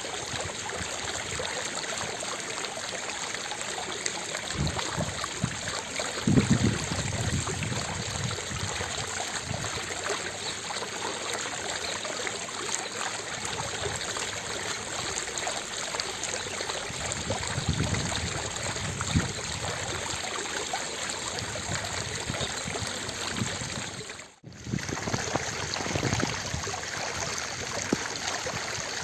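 Fountain water splashing steadily, a dense even rush with a few deeper swells. About 24 seconds in, the sound cuts out for a split second and then returns.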